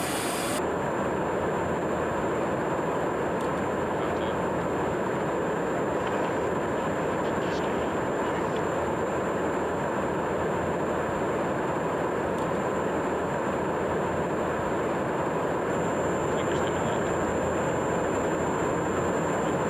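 Dassault Rafale's twin turbofan engines running steadily on the ground at low power: an even rumble with a thin, steady high whine that comes in just after the start.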